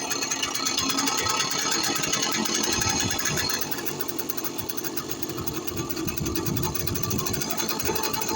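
Karpaty moped's small two-stroke single-cylinder engine running with a rapid, even putter, dropping a little in loudness about halfway through and picking up again.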